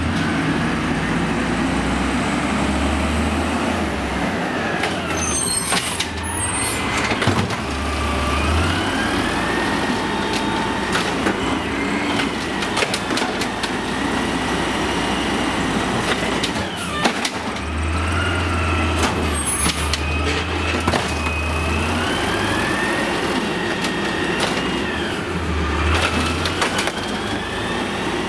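Amrep automated side-loader garbage truck working, its diesel engine running with a whine that rises and falls repeatedly, and a few sharp knocks.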